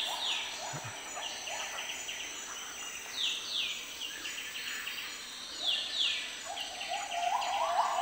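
Several wild songbirds calling, with high, quickly falling calls repeated every second or so over shorter, lower notes.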